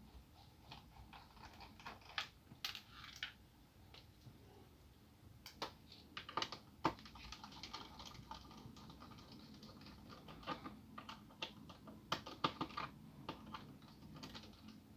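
Small screwdriver working screws out of a laptop's plastic bottom panel: faint, irregular clicks and ticks in clusters, with a few sharper clicks.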